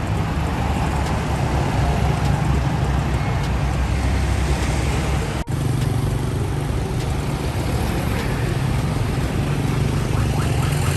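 Road vehicle engine rumble with traffic noise, steady and low-pitched, broken by a sudden cut about five and a half seconds in.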